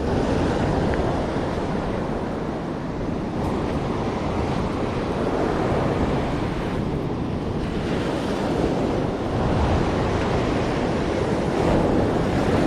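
Ocean surf washing onto the beach, the roar swelling and easing, with wind buffeting the microphone.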